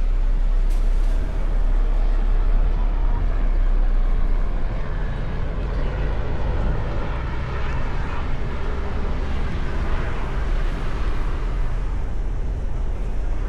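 Mustang convertible driving: a steady rumble of wind, road and engine noise, heaviest in the low bass, easing slightly a few seconds in.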